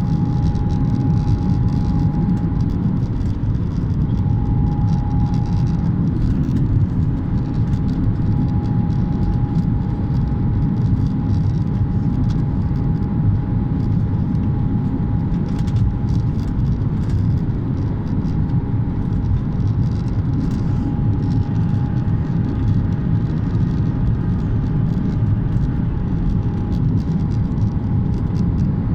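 Steady low rumble of jet airliner cabin noise, with a thin steady whine above it.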